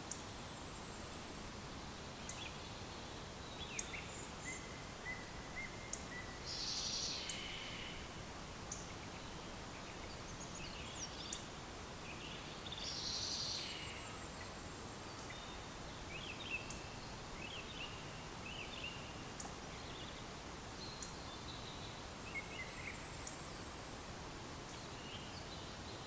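Small birds chirping and singing, with a scatter of short high calls and two louder, longer phrases, over a steady background hiss.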